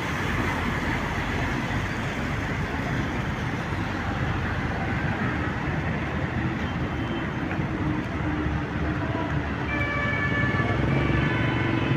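Steady road and traffic noise of vehicles on the move, with a few short high tones near the end.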